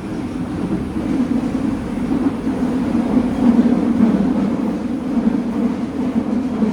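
Nagoya Municipal Subway 2000 series train running, heard from aboard the car: a steady wheel-on-rail rumble that swells through the middle and eases a little near the end.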